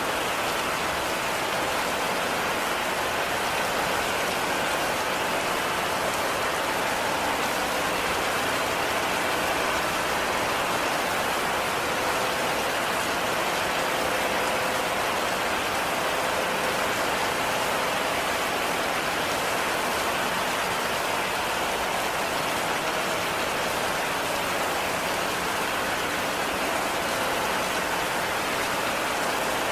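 Heavy rain falling steadily, an even, unchanging wash of rain noise with no single drops standing out.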